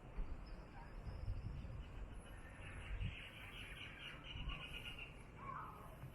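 Faint outdoor ambience: an insect trill with a rapid pulse in the middle, and a few short bird chirps near the end, over a low, uneven rumble.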